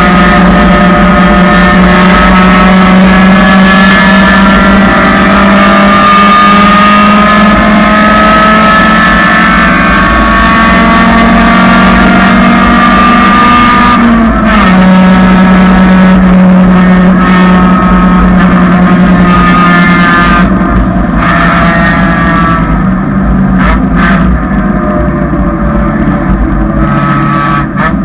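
1999 Honda Civic's four-cylinder engine running loud at high revs under hard acceleration, its pitch climbing slowly, dropping at an upshift about 14 s in and climbing again. From about 20 s in the engine comes off the throttle and the revs fall away as the car slows.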